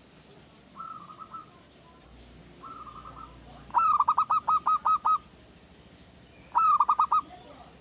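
Male zebra dove (perkutut) cooing: two soft short phrases, then a loud rapid staccato series of about seven notes and a shorter loud burst near the end. The song of a young, newly kept bird that has just begun to sing regularly.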